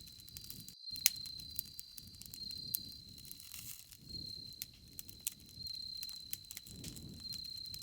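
Bonfire crackling, with sharp pops over a low rumble that swells and fades, and insects chirring steadily in the background. The sound cuts out briefly less than a second in.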